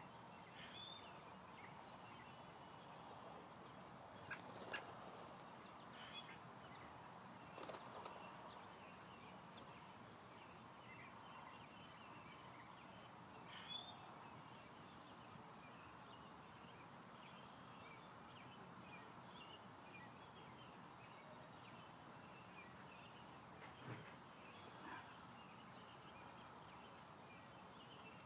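Faint outdoor ambience with scattered short, high bird chirps and a few brief clicks or rustles.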